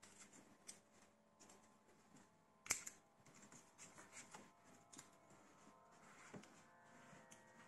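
Near silence with faint scattered clicks and rustles of copper coil wire being worked into the slots of a motor stator, and one sharper click about a third of the way in.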